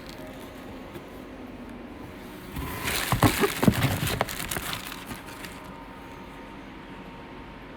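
A few seconds of rustling and knocking from objects being handled, over a steady faint background hum.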